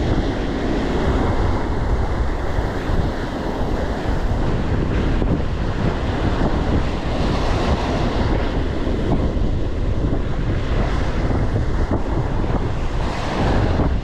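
Strong wind buffeting the microphone over the wash of surf breaking on the shore, a steady loud rumble with waves swelling and easing.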